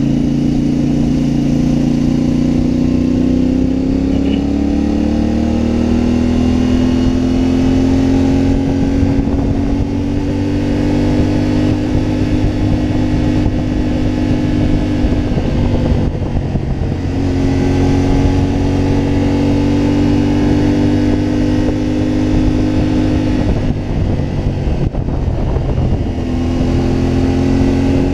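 CFMoto 450MT motorcycle's parallel-twin engine under way, pulling up through the revs over several seconds and holding steady. The revs drop off twice, about two thirds of the way through and again near the end, as for a gear change or closing the throttle, then pick up again.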